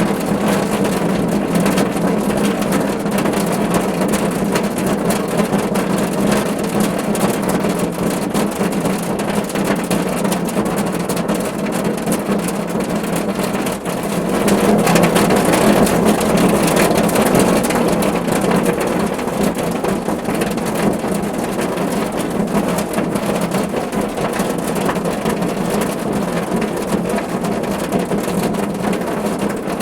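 Rain falling steadily on a car roof: a dense, even patter of drops. About halfway through it grows louder for a few seconds, then settles back.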